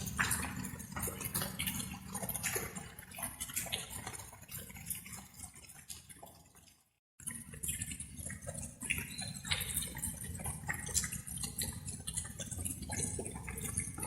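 Light rain: drops dripping and pattering in quick, irregular ticks over a steady low wash. The sound fades out to a moment of silence about seven seconds in, then starts again.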